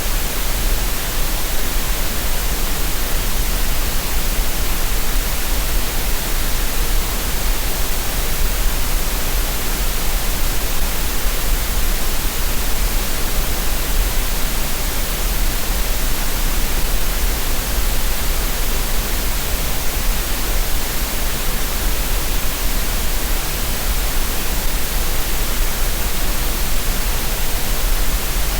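Steady synthetic green noise: an even, unbroken hiss with a strong low rumble underneath, unchanging throughout.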